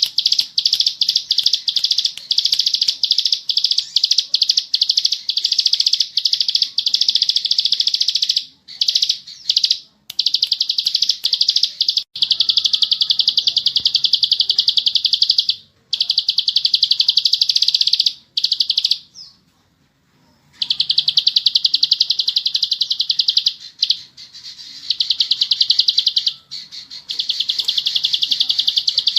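Plain prinia (ciblek sawah) singing long, very fast chattering trills of high notes in the continuous 'ngebren' style, broken by short gaps and one pause of about a second and a half a little past the middle.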